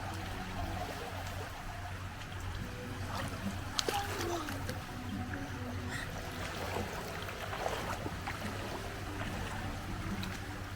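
Swimming-pool water sounds as a child swims: light splashing and lapping over a steady low hum, with a couple of small sharper splashes.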